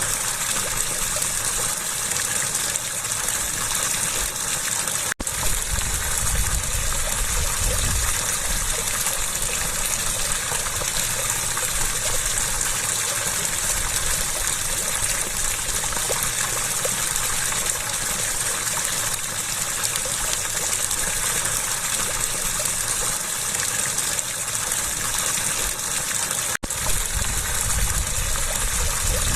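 Steady rushing water, an even gush with no pauses in the flow, broken by two brief cuts in the sound about five seconds in and near the end.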